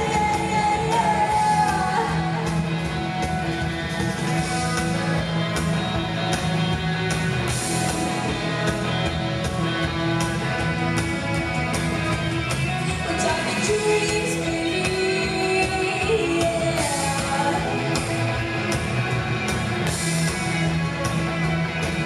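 Live pop-rock band playing with drums, bass, guitar and keyboards, with some singing over a steady beat, heard in a large hall.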